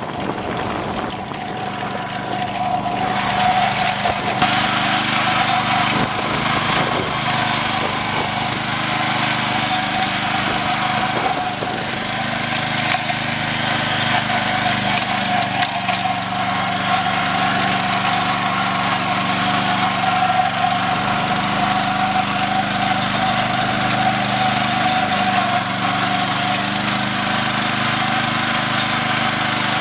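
Garden tractor engine running steadily while towing a trailer down the road, getting louder about three seconds in and then holding.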